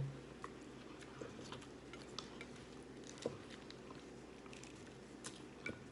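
A person chewing a fried chicken wrap: scattered soft mouth clicks over a faint steady hum, with one slightly sharper click about three seconds in.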